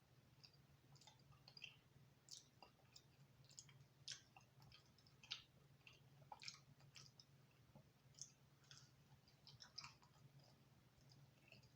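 Faint chewing of a mouthful of thin-crust pizza, with irregular soft mouth clicks.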